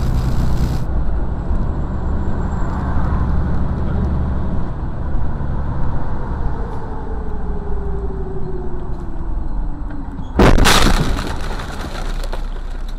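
Car on the road with steady engine and road rumble, a tone falling slowly in pitch, then a loud, sudden crash impact about ten seconds in, after which the rumble carries on lower.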